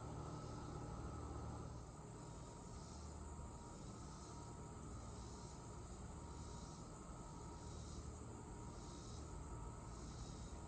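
Insects, crickets or similar, trilling in a steady high-pitched drone, with a fainter pulsing call repeating about every second and a quarter, over a low background rumble.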